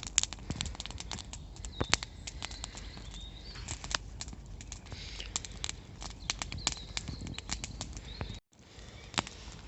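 Campfire crackling, with irregular sharp pops and snaps, some much louder than others.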